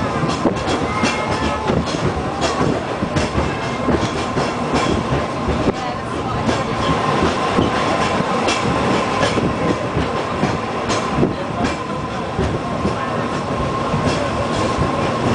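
Peak Tram funicular car running downhill, heard from inside the car: a steady rumble of wheels on the rails with irregular clicks and a steady whine.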